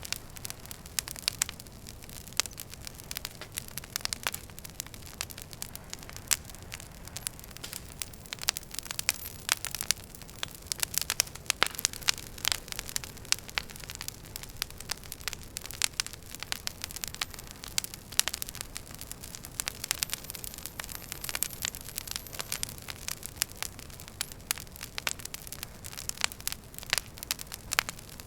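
Wood fire crackling in a fireplace: irregular sharp pops and snaps over a steady low hiss of burning logs.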